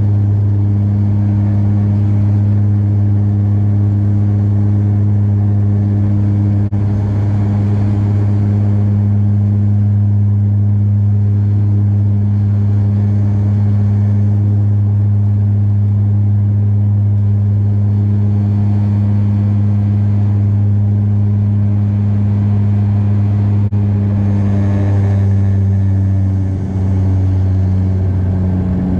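Cabin drone of a Bombardier DHC8-Q400's turboprop engines, a steady low propeller hum with a fainter tone above it. The hum shifts slightly about 25 seconds in.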